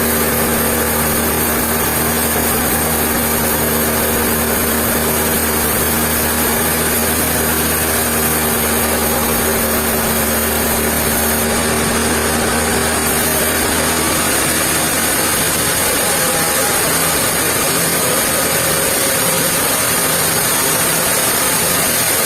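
Sawmill machinery running steadily with a constant mechanical noise and low hum; the low hum drops away about two-thirds of the way through while the rest keeps running.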